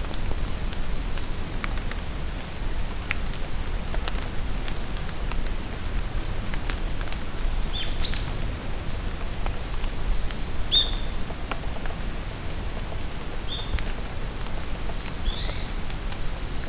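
Rain falling in a forest, a steady patter with scattered sharp drips, while small birds give short high chirps and whistles, most of them in the second half.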